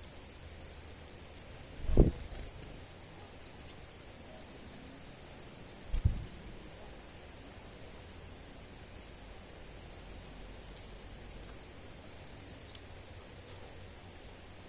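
Small songbirds giving short, very high, thin chirps every second or two, a few in a quick cluster near the end. Two dull low thumps, about two seconds and six seconds in, are louder than the chirps.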